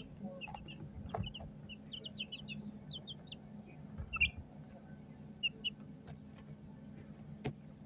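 Chickens chirping in short, high notes, in a quick run during the first three seconds and a few more around four and five and a half seconds in. Scattered light knocks and a steady low hum lie underneath.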